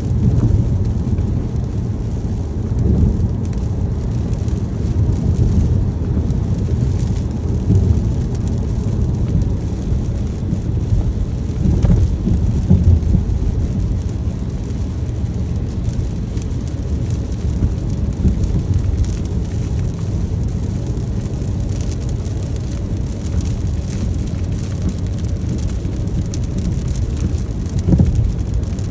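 Steady rain over a constant deep rumble, swelling briefly louder a few times.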